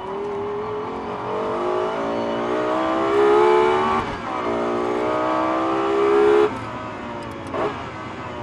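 Lexus LFA's V10 engine accelerating at full throttle, heard from inside the cabin. The revs climb, dip at an upshift about four seconds in and climb again, then the throttle shuts suddenly for braking, with a short rev blip on a downshift about a second later.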